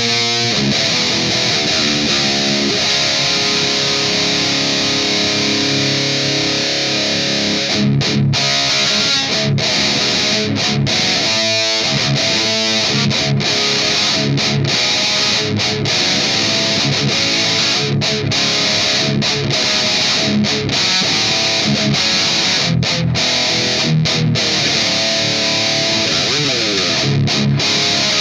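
Electric guitar played through heavy distortion, riffing continuously. From about eight seconds in the riffs are broken by many short, sharp stops.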